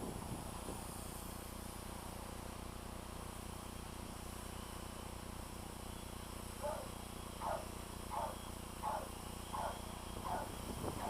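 Multicopter's Hacker A30-28L electric motors humming steadily as it holds its position in the wind. From about two-thirds of the way through, a short chirp repeats about seven times, roughly every 0.7 s.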